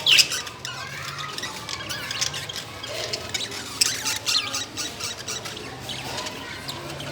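Caged lovebirds and budgerigars squawking and chirping, many short high calls overlapping, loudest at the very start.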